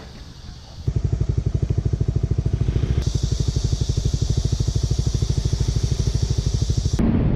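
Motorcycle engine idling with a steady, even low throb that comes in abruptly about a second in. Near the end it gives way to wind rushing over the microphone.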